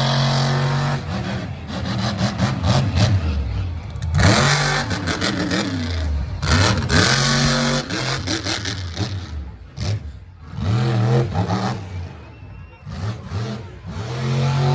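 Monster truck engine revving hard in repeated bursts, its pitch climbing and dropping again every couple of seconds.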